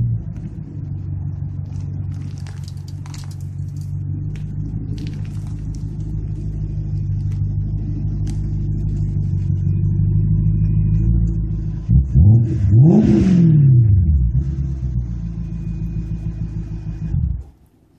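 BMW 550i's 4.8-litre V8 through an RPI GT aftermarket exhaust, running steadily with a deep low drone. About twelve seconds in it is blipped once and then revved higher, the pitch rising and falling back. The sound cuts off suddenly near the end.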